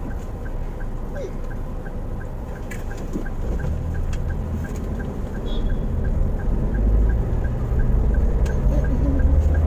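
Car cabin sound as the car pulls away from a stop and picks up speed: engine and road rumble grow louder from about three and a half seconds in. A steady quick ticking runs through it, about three ticks a second.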